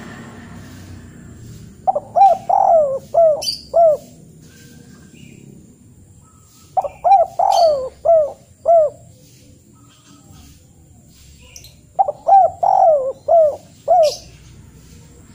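A bird calling in three phrases of about five quick, arching notes each, repeated roughly every five seconds.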